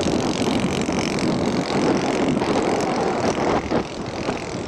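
Radio-controlled scale model airplane's engine and propeller running as the plane comes in on approach, with wind buffeting the microphone.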